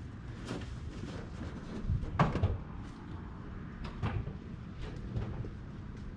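Scattered knocks and bumps of household items being handled and set down, the loudest cluster of thuds about two seconds in.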